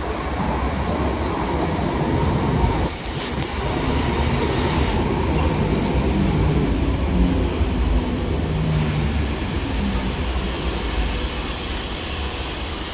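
ScotRail electric multiple unit running into an underground station platform and past close by, with a steady rumble of wheels on rail and the hum of the traction motors.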